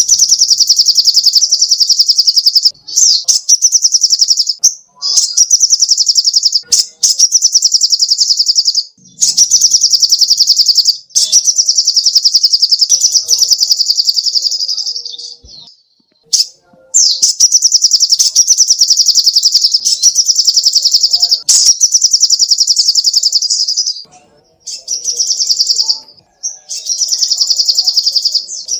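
Sogok ontong bird singing: long, very rapid high-pitched trills in phrases of a few seconds each, broken by short pauses.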